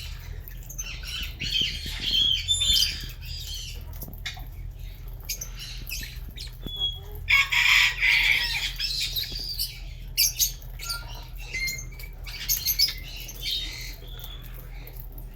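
A colony of lovebirds chattering with many short, shrill chirps and squawks, busiest about eight seconds in.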